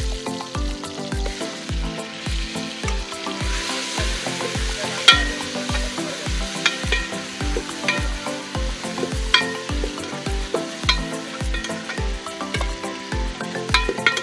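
Chicken masala sizzling in an aluminium pot as a steel ladle stirs it, the ladle clinking with a short ring against the pot several times. Background music with a steady beat runs underneath.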